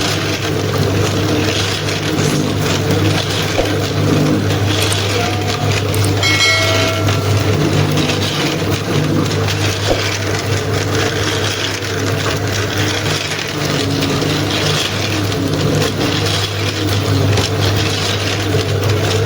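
A steady, loud low machine hum with rattling noise over it, and a brief higher tone about six seconds in.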